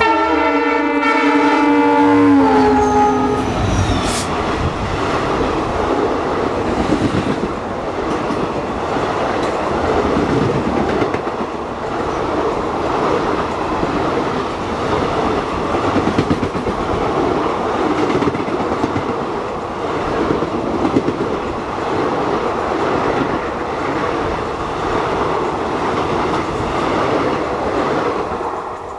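An oncoming Indian Railways locomotive's horn sounds for about two and a half seconds, its pitch dropping as it draws level. Then its coaches rush past close by on the next track, with a steady rumble and clickety-clack over the rail joints until they have gone, near the end.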